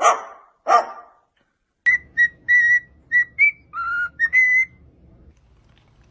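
Parrot giving two short dog-like barks, then whistling a run of about eight short notes, mostly on one pitch with one lower note near the middle.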